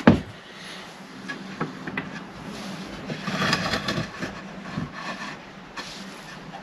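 Wooden bed-slat pieces and clamps being handled during a glue-up: one sharp knock right at the start, then scattered clicks and a stretch of scraping and rubbing about halfway through.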